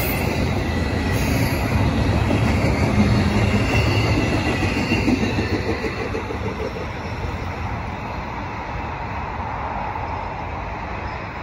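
Tail end of a Norfolk Southern double-stack intermodal freight train rolling past: a steady rumble of steel wheels on rail with some high wheel squeal. It eases off after the last well car goes by about six seconds in and the train pulls away.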